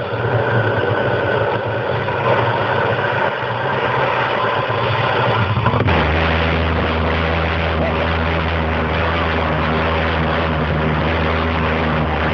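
Homemade tin-can pulse jet engine running continuously with a loud buzzing drone. About halfway through, its note changes suddenly and settles into a steadier, lower hum.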